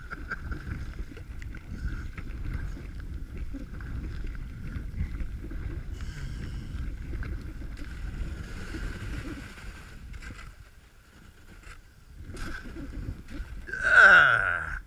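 Kayak hull pushing and scraping through thin lake ice under paddle strokes: a low grinding rumble that dies away about ten seconds in as the boat comes to a stop in the ice. A louder sweeping sound comes near the end.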